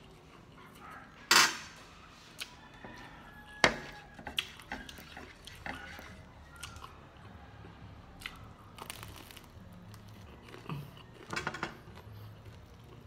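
Close-up eating sounds of someone chewing and biting into fried food, with irregular crunches and clicks. The two loudest sharp sounds come about a second and nearly four seconds in, and a small cluster comes near the end.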